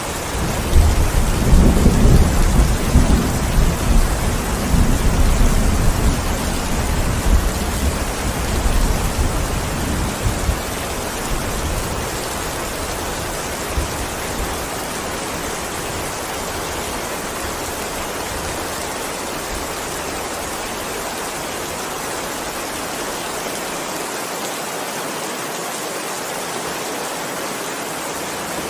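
Steady heavy rain falling, with a long roll of thunder. The thunder starts about half a second in, rumbles loudest over the first few seconds and dies away over about twelve seconds, leaving the rain alone.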